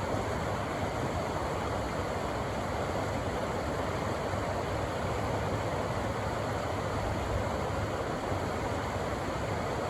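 Rushing river water: a steady, full rush with a low rumble underneath.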